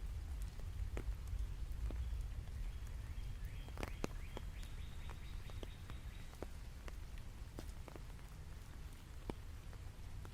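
Rain falling, with scattered single drops ticking close by over a low steady rumble. A faint, high steady tone sounds for a few seconds in the middle.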